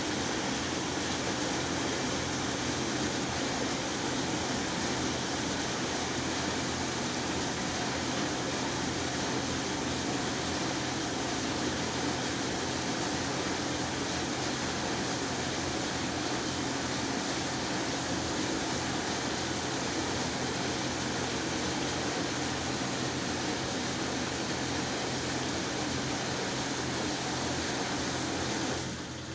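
Fagor FI-80 dishwasher running, a steady motor hum under an even rushing noise, which cuts off abruptly near the end.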